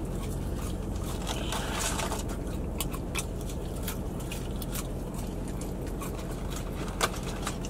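Quiet eating sounds: chewing, small clicks, and light rustles as fingers work a cardboard fry carton, all over a steady low hum.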